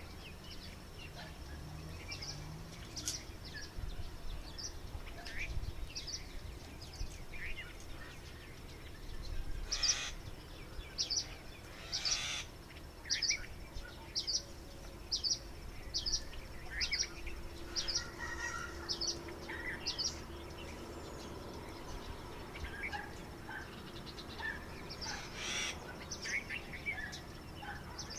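Birds calling: a long series of short, high chirps repeated about every half second to second, with a few louder calls around the middle and again near the end.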